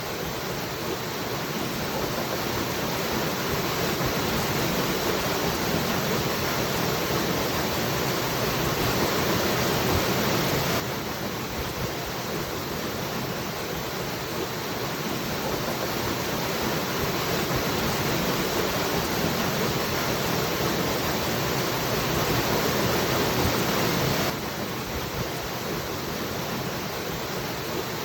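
Waterfall: steady rushing water, with a sudden slight drop in level about eleven seconds in and again near the end.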